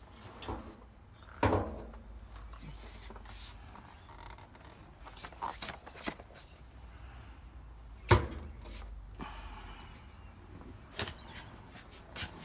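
Scattered knocks and clicks of things being bumped and handled, with two loud thumps, one about a second and a half in and another about eight seconds in, over a low steady rumble.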